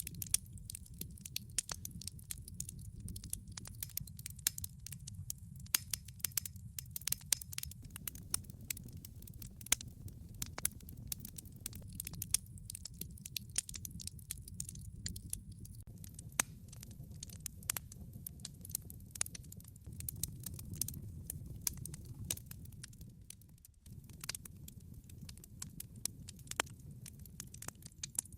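Log fire in a fireplace crackling and popping: many sharp irregular snaps of burning wood over a steady low rumble of the flames.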